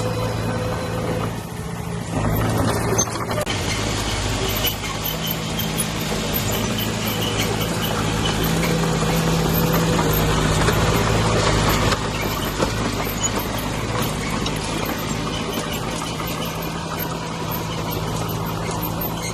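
Heavy diesel engine of an earthmoving machine running under load, with mechanical clatter over it. It works harder from about eight seconds in, then eases back sharply about twelve seconds in.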